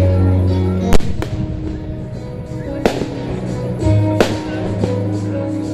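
Fireworks shells bursting with several sharp bangs, the loudest about a second in, over a music soundtrack with sustained bass notes.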